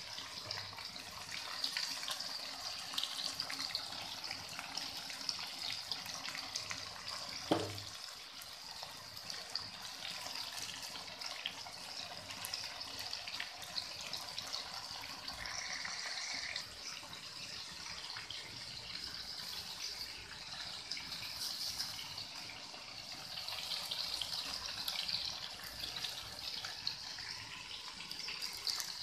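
Chicken sizzling and bubbling in oil and sauce in a steel wok: a steady crackling hiss. A single sharp knock comes about seven and a half seconds in.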